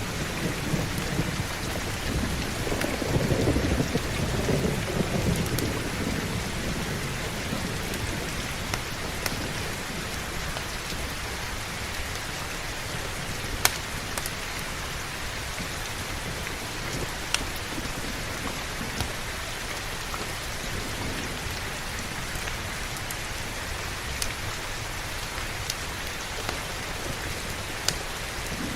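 Heavy rain falling steadily, with a low rumble of thunder in the first few seconds that fades away. A few single sharp pops stand out over the rain.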